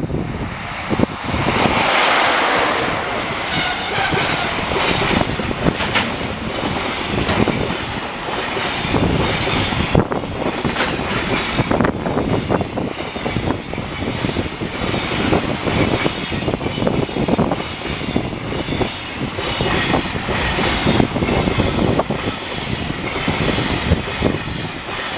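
Train passing at speed, its wheels clattering over the rail joints, with a louder swell about two seconds in.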